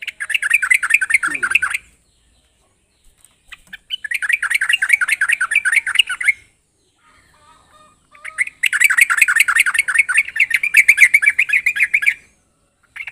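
Yellow-vented bulbul (trucuk) singing loud, fast bubbling phrases of quick wavering notes. There are three phrases of about two to four seconds each with short pauses between, and another begins near the end.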